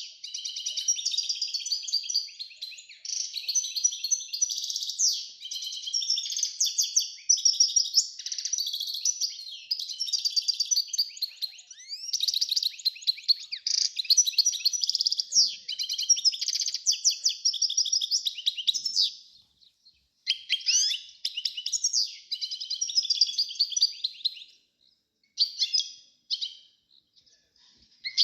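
Small songbirds chirping and twittering in rapid, high-pitched runs, almost without a break for most of the time, then in shorter bursts with silent gaps over the last several seconds.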